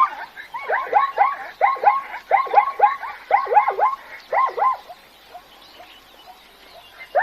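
Zebra barking: quick runs of short yelping calls, each dropping in pitch, that die away about five seconds in.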